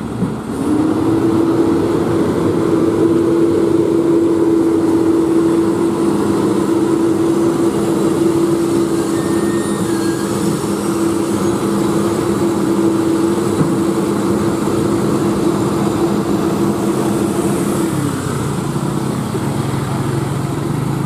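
An engine speeds up about half a second in and holds a steady higher speed for some seventeen seconds, then drops back to a lower, steady speed near the end.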